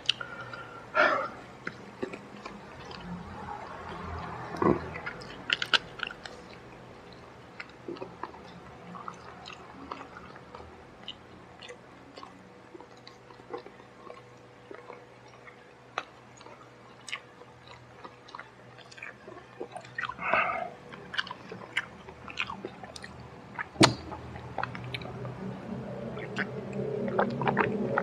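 A man chewing and biting crispy fried chicken, with scattered small crunches and wet mouth clicks, a few louder crunches, and louder chewing near the end.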